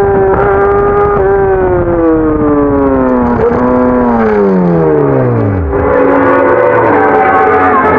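Motorcycle engine heard from onboard, its revs falling steadily as the bike slows, with a downshift into first gear about three and a half seconds in; after about six seconds it settles to low, steady revs.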